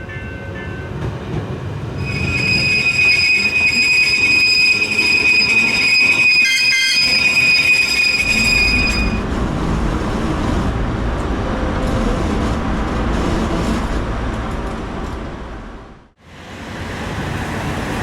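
Tram wheels squealing on the rails in one steady, high-pitched squeal lasting several seconds, then the low rumble of the tram running along the track. The rumble cuts out briefly near the end before resuming.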